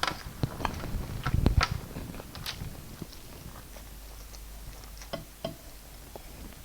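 A person eating up close to the microphone: wet chewing and mouth smacks with sharp little clicks, busy for the first couple of seconds and then sparser.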